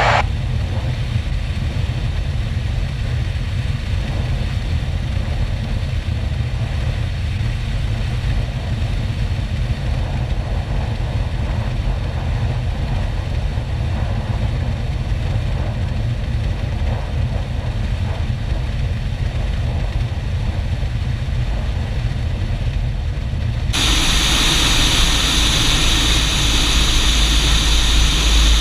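Cessna 150's Continental O-200 engine and propeller droning steadily in the cabin on final approach. About 24 seconds in, the sound suddenly turns louder and harsher, with more rumble and hiss.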